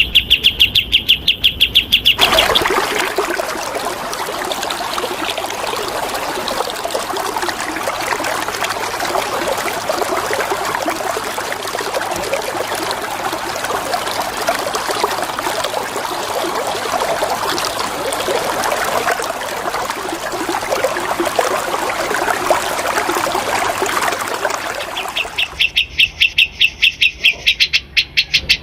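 Running water flowing steadily for most of the stretch. It is framed by a songbird's rapid run of repeated high notes for about the first two seconds, which returns near the end.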